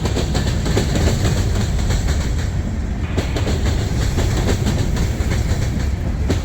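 Freight train cars rolling past at steady speed, the wheels clicking and clattering over the rail joints.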